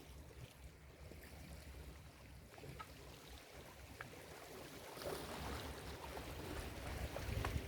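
Ocean surf on a beach: waves breaking and washing up the sand, a steady rushing noise with a low rumble that grows louder about five seconds in.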